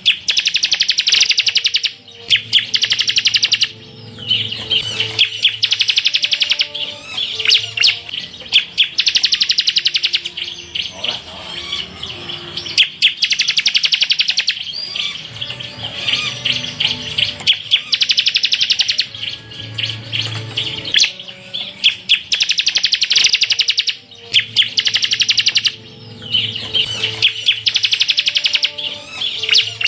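Ciblek (bar-winged prinia) singing: rapid, high buzzy trills of about a second each, repeated every couple of seconds.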